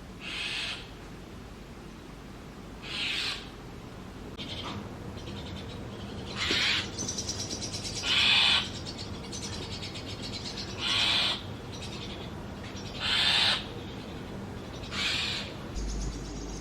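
Brahminy starling nestlings begging in the nest box: a string of short, raspy, hissing calls about every two seconds, with a fainter continuous rasping from about halfway through.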